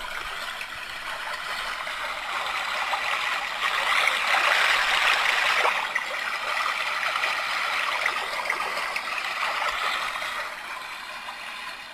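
Homedics SoundSleep sound machine playing one of its recorded flowing-water nature sounds through its small speaker. It is a steady rushing hiss that swells louder for a couple of seconds around the middle.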